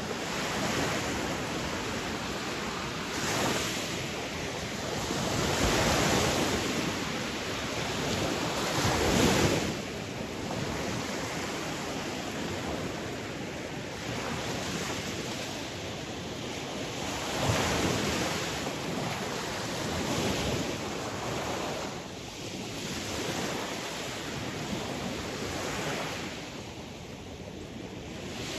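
Sea waves, a steady rush of surf that swells and fades every few seconds, loudest about nine seconds in.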